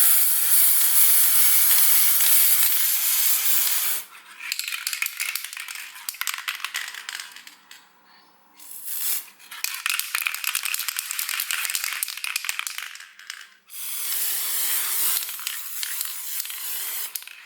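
Aerosol spray-paint can spraying: a steady hiss for about four seconds, then a stretch of shorter, crackling, sputtering spurts with gaps, and a second steady hiss near the end.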